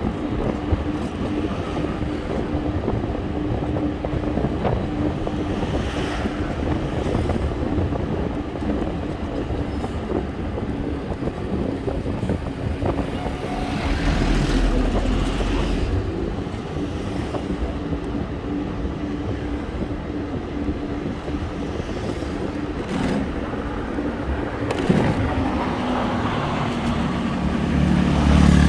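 Traffic noise heard while riding, with a steady rumble and a vehicle engine's hum running through it; the engine note falls in pitch about 25 seconds in.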